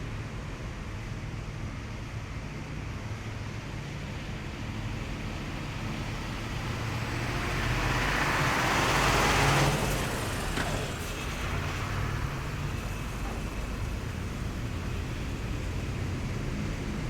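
Heavy military vehicles driving past with a steady low engine drone. One vehicle passes close: its engine and tyre noise swells to a peak about nine seconds in, then drops away quickly.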